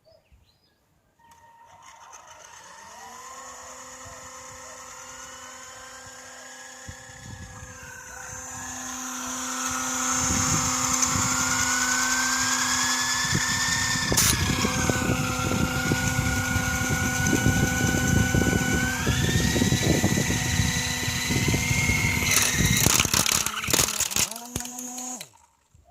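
Small toy RC helicopter's electric motors whining as the rotors spin up, the pitch rising and falling with the throttle and growing louder with rotor wash as it flies. A flurry of knocks comes near the end, then the motors cut off suddenly.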